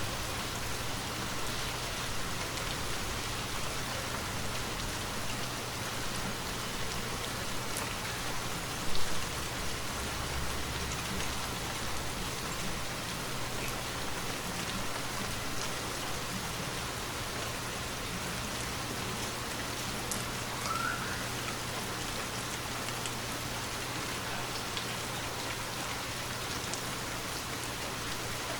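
Steady rainfall, with many individual drops ticking through it, and a single brief loud low thump about nine seconds in.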